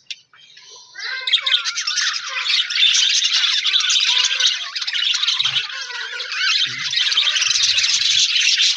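A flock of budgerigars chattering and warbling, with dense overlapping chirps and squawks. It starts abruptly about a second in, after a brief near silence.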